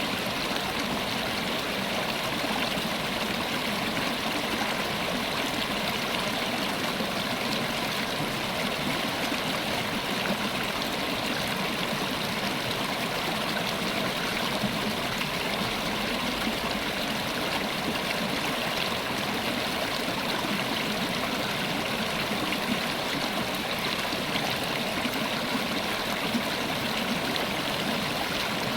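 River water running and splashing over rocks in a steady, unbroken rush.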